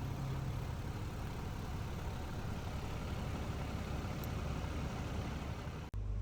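2023 Seagrave Attacker pumper's diesel engine idling steadily. Near the end the sound breaks off suddenly and gives way to a steadier, lower hum.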